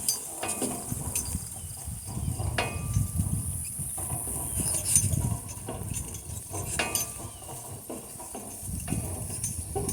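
A pair of harnessed donkeys walking: irregular hoof steps with scattered clicks and knocks from the harness and gear.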